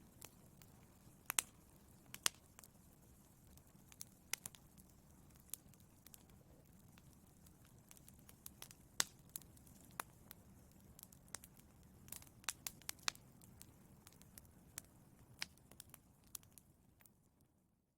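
Wood fire in a fireplace crackling: sharp, irregular pops and snaps over a low, steady rumble of the flames. The sound fades out near the end.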